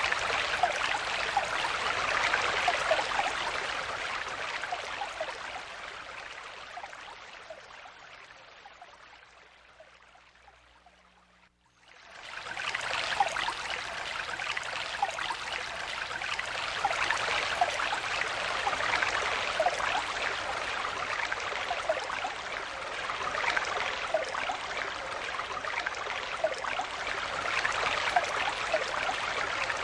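Stream water flowing and splashing over stones, with many small bright trickles. The flow fades out gradually to near silence about eleven seconds in, then returns quickly and goes on steadily.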